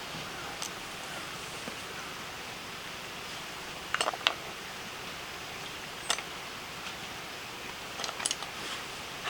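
Steady background hiss with a few short, sharp clicks: a pair about four seconds in, one about six seconds in, and a small cluster near the end.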